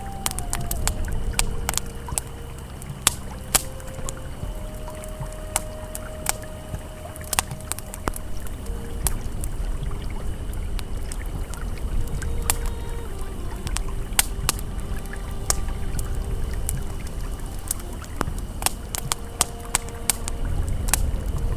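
Campfire crackling with frequent irregular sharp pops over the steady low rush of a flowing river. Faint, soft held ambient tones sit beneath.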